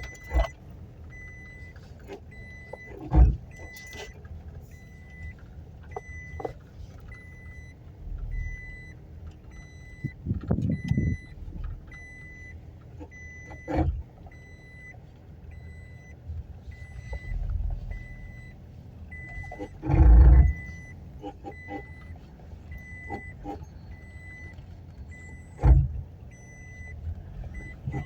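Inside the cab of a moving 2015 Toyota Hilux Vigo 2.5: a dashboard warning chime beeps evenly throughout, over a low road rumble. Loud cracks or clunks come now and then, the biggest about twenty seconds in. This is the cracking noise the owner is asking about, which comes with the truck dragging as if its brakes were on.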